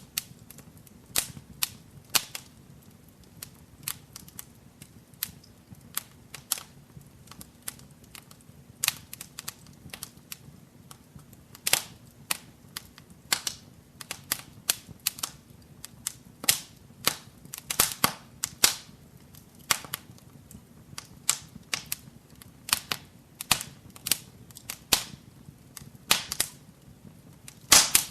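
Wood fire burning in a fireplace, crackling and popping: irregular sharp pops, some loud, over a soft low rumble of the flames. A dense cluster of loud pops comes near the end.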